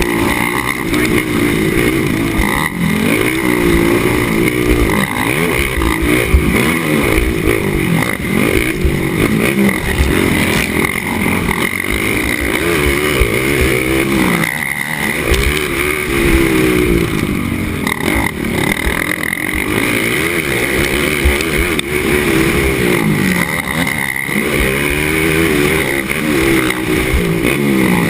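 Racing ATV engine close to the microphone, revving up and down over and over as the throttle is worked, its pitch rising and falling every few seconds, over a steady rough rumble.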